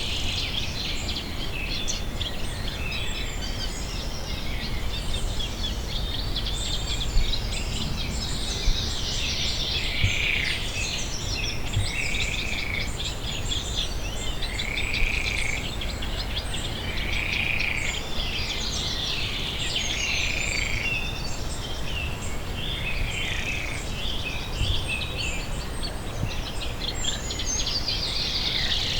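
Pondside ambience of many birds chirping and singing together, with repeated short arched calls and fast trills, over a steady low rumble. A few brief soft knocks occur in the first half.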